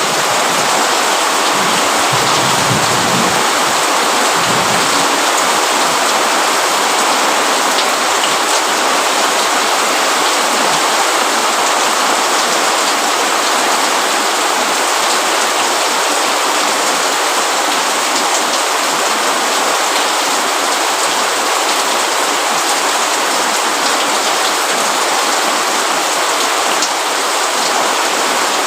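Steady rain falling on a roof and leaves, a dense even hiss with an occasional single drop ticking out.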